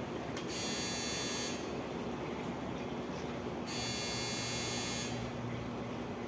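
Two bursts of a high-pitched buzz, each lasting about a second and the second a little longer, over a steady low hum.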